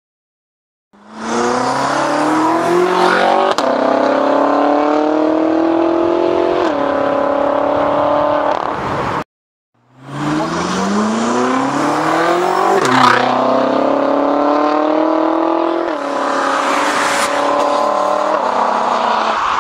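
Tuned turbocharged BMW engine on catless downpipes and an aftermarket exhaust, accelerating hard through the gears: the note climbs steadily, then drops at each upshift, twice in each of two runs. The sound starts about a second in and cuts out for under a second partway through.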